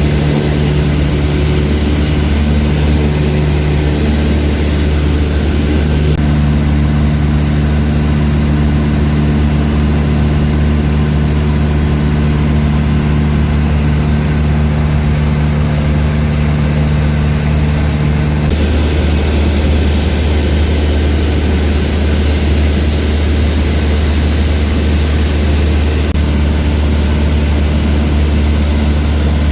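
Steady drone of a small propeller aircraft's engine, with a change in its tone about eighteen seconds in.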